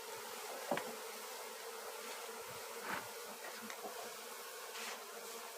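A swarm of honeybees buzzing in a steady, dense hum around a box hive, with a couple of faint clicks from handling about one second and three seconds in.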